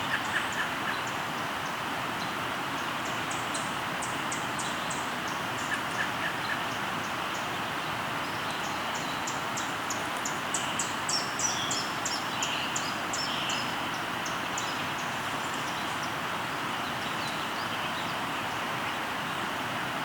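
River flowing steadily, with birds singing over it: rapid high trills a few seconds in and again in the middle, and scattered shorter calls.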